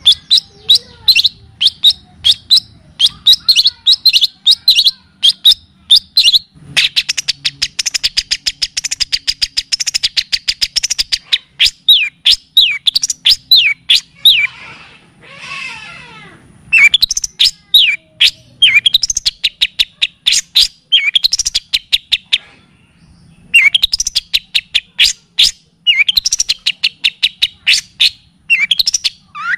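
Songbird singing loudly in fast runs of sharp, repeated chirps, with a dense rattling trill about a quarter of the way in, a harsh rasping call around the middle, and short pauses between phrases.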